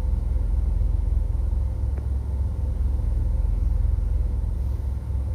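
Steady low rumble of a vehicle's engine and road noise.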